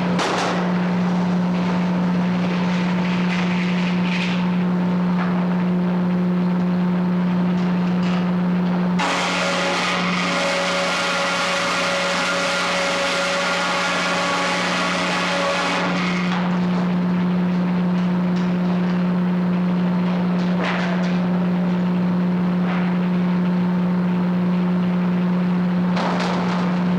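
Frick 00 circular sawmill running steadily, with a harsher, hissier stretch of about seven seconds in the middle.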